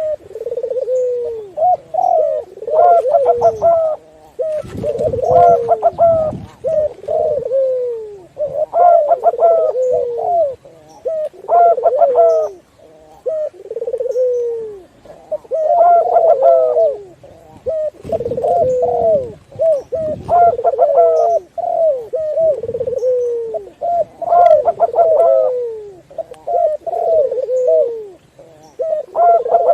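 Several doves cooing in overlapping, repeated phrases with short pauses between them: a mix of zebra dove (perkutut), Barbary dove (puter) and spotted dove (tekukur) calls. Faint short chirps from a small bird sit above them, and there is a low rumble twice.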